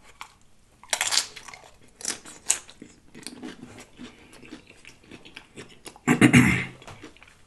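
Close-up crunching and chewing of a tortilla chip loaded with nacho toppings, in scattered crisp crackles, with a louder burst of chewing about six seconds in.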